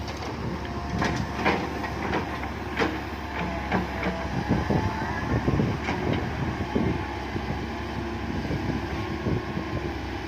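Komatsu PC130 hydraulic excavator digging, its diesel engine running steadily under a string of irregular metallic clanks and knocks from the bucket and arm.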